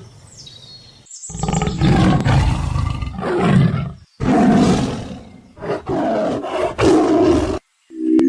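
A big cat roaring: two long, loud roars, the second starting about four seconds in, after a faint high chirp.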